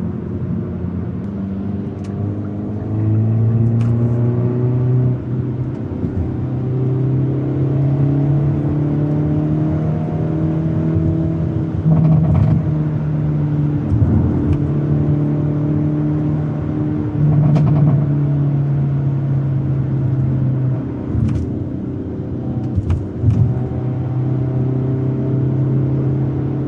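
Hyundai Elantra N's 2.0-litre turbocharged four-cylinder engine and exhaust pulling through the gears while driving. The engine note rises, then drops in a step at each gear change, several times over. A few short sharp knocks are heard along the way.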